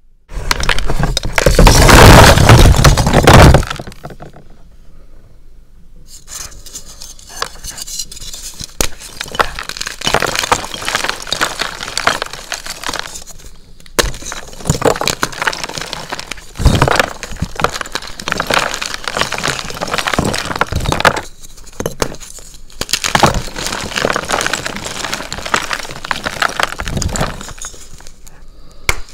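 A dyed SPRI gym chalk block being crushed: a loud burst of crunching for the first few seconds, then quieter, uneven crackling and crumbling with occasional sharper crunches.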